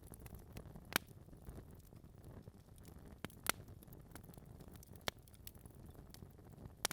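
Wood fire in a fireplace crackling: a low steady rumble of flames with scattered sharp pops and snaps from the burning logs, the loudest about a second in and halfway through.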